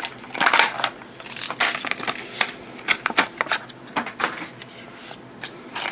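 Plastic toy packaging crinkling and clicking as a die-cast toy car is unpacked, in a run of irregular sharp crackles.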